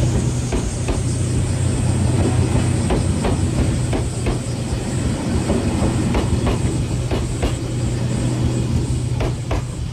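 JR Kyushu train running on the rails with a steady low hum, its wheels clicking over rail joints in quick pairs several times.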